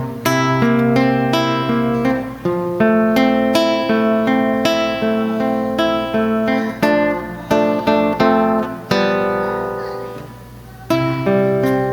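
Acoustic guitar playing chords, each struck note ringing and dying away in quick succession. The playing dies down about nine seconds in and picks up again near the end.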